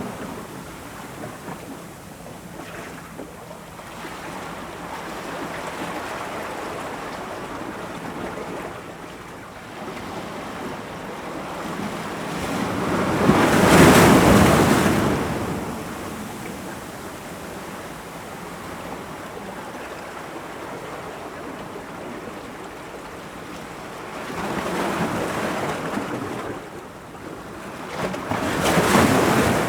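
Ocean waves breaking against rocks: a steady wash of surf with swells that build and fade every several seconds. The largest comes about halfway through, with smaller ones near the end.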